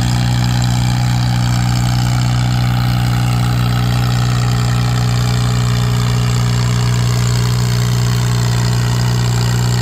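Oliver Super 66 tractor's engine running hard and steady under load while pulling the sled, its pitch holding level throughout.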